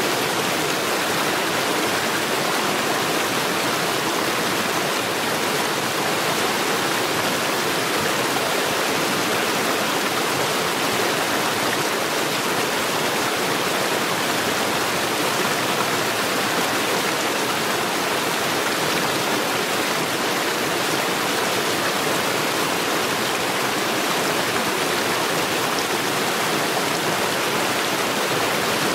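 Mountain stream rushing over stones, a steady full water noise that doesn't change.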